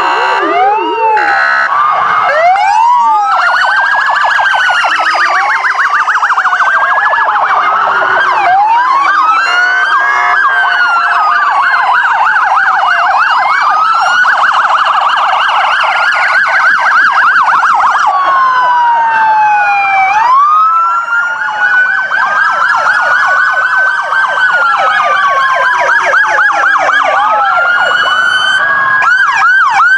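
Several police car electronic sirens sounding together. Slow wails rise and fall every two to three seconds, overlapping with fast yelp and warble tones, loud and unbroken.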